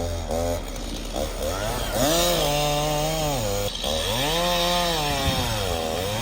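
Two-stroke chainsaw being throttled: a few quick blips, then revved up and held high for a second or two, dropped back, and revved up again, as when cutting through a storm-fallen tree.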